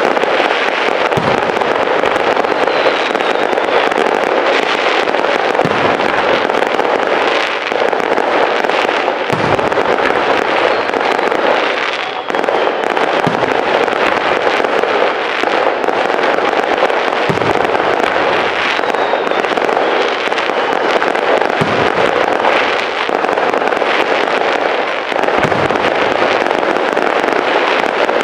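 Aerial fireworks display: a dense, continuous crackle of bursting shells, with a deep boom every few seconds and now and then a faint whistle.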